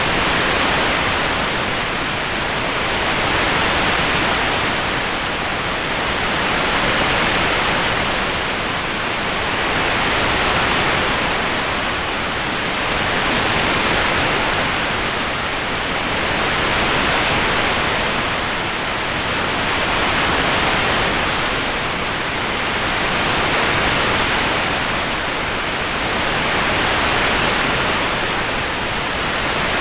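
Steady hiss of a rain-sound track, like heavy continuous rain, swelling and easing gently every three seconds or so.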